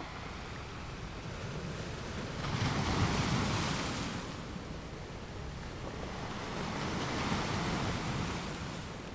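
Sea waves washing past a cruise ship, swelling louder twice, with wind buffeting the microphone.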